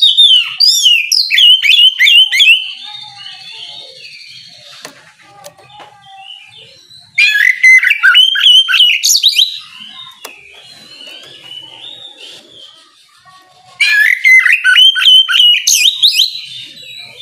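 Oriental magpie-robin (kacer) singing loud, clear whistled phrases in the open 'ngeplong' style. It sings three bursts of rapid notes that swoop up and down, each two to three seconds long: near the start, about seven seconds in, and about fourteen seconds in. Quieter twittering fills the gaps. It is a challenge song of the kind used to provoke rival kacer into answering.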